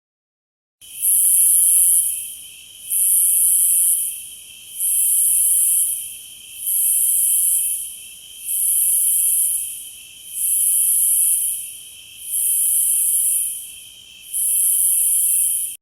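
Insect sound effect: a steady, high chirring with a louder, higher buzz that swells in about every two seconds, eight times over. It starts after a brief silence and cuts off abruptly.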